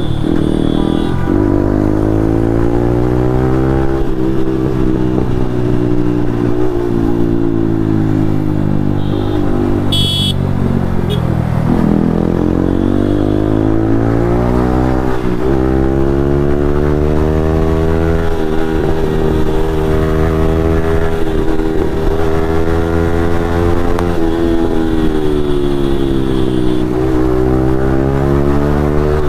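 Yamaha MT-15's single-cylinder engine running through an aftermarket Akrapovic exhaust under way, its note falling and rising several times with throttle and gear changes.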